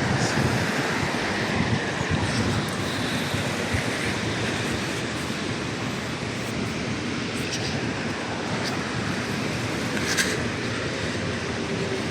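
Steady road and wind noise of a car driving at speed, with a few short clicks, the clearest about ten seconds in.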